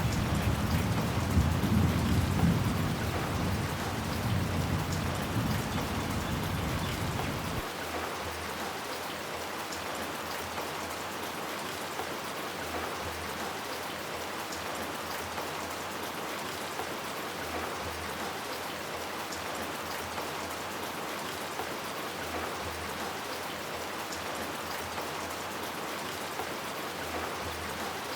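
Steady rain with a low rumble of thunder at the start that dies down and then cuts off suddenly about eight seconds in. Only the rain continues after that.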